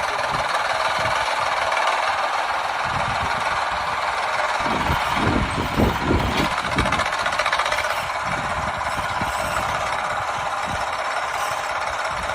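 Mini tractor's small engine running steadily with a knocking clatter, with a few heavier low thumps about midway.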